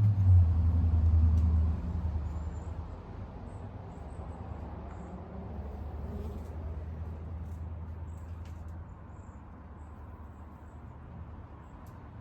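A motor vehicle's low rumble, loudest in the first two seconds and then dying away, with a fainter rumble lasting until about nine seconds in. Faint short high chirps sound over it.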